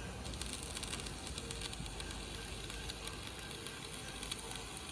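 Electric arc welding on steel: a steady, dense crackle and sizzle of the arc starts just after the beginning, over a low workshop rumble.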